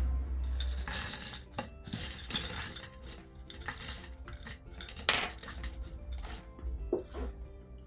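Clinking and scraping of hard objects being handled, with a few sharp knocks, over faint background music.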